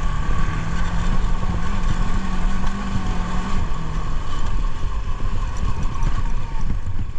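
Motorcycle engine running while riding off-road, with heavy low rumble; a steady engine tone holds and then drops away about three to four seconds in.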